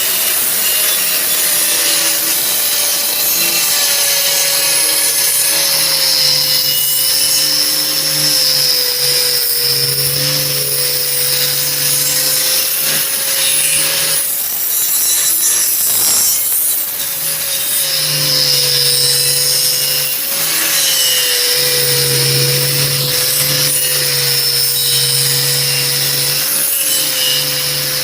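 Angle grinder running continuously and grinding the steel cutting edge of a hydraulic log-splitter wedge, with the disc held flat against the blade face to sharpen it. A steady motor whine that dips and recovers slightly in pitch as the disc is pressed in, under the rasp of abrasive on steel.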